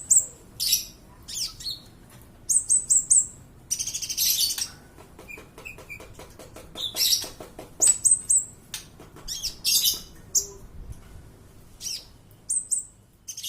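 Kolibri ninja (a sunbird) singing: very high, thin chirps in quick runs of three or four notes, mixed with scratchy twittering bursts and a fast run of ticking notes in the middle.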